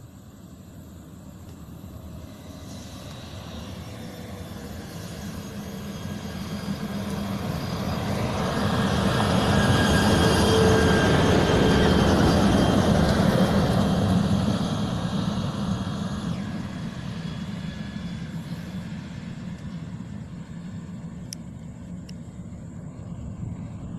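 Heavy coal-hauling truck approaching, passing close at its loudest around ten to thirteen seconds in, then fading away, its engine and tyres on an unpaved haul road.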